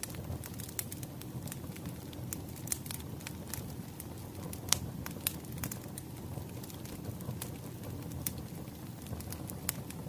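Wood fire crackling steadily with a low rumble, with irregular sharp pops and snaps; the loudest pop comes just under five seconds in.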